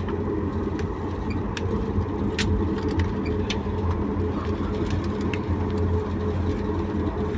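Cabin noise of a Boeing 737 MAX 8 airliner: the CFM LEAP-1B engines give a steady drone over a low rumble, with scattered light clicks and rattles from the cabin.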